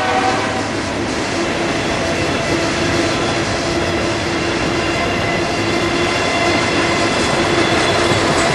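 Freight train rolling past, a loud steady rumble of wheels on rail with a faint held squeal tone. The tail of a train horn fades out about half a second in.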